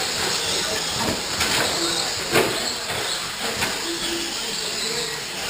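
Several electric RC short-course trucks racing on a dirt track: a steady hiss of motors and tyres on dirt, with a few sharp knocks, the loudest about two and a half seconds in.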